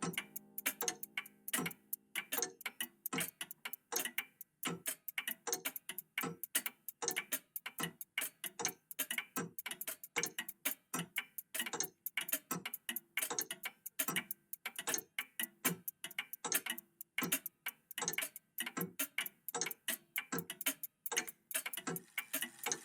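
Several old mechanical clocks ticking at once, their ticks falling out of step with each other so that the clicks come several a second in an uneven pattern.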